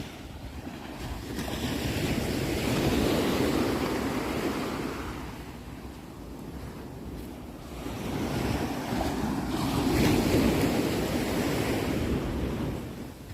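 Ocean waves breaking and washing ashore, two swells of surf a few seconds apart with a lull between. Wind rumbles on the microphone.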